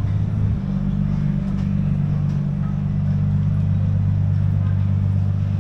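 Steady low engine hum, as of a motor vehicle idling close by, holding an even pitch without revving.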